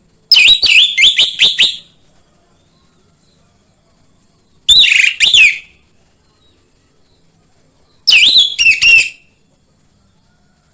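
Orange-headed thrush singing: three short bursts of rapid whistled phrases with pauses of a few seconds between them, over a faint steady high hiss.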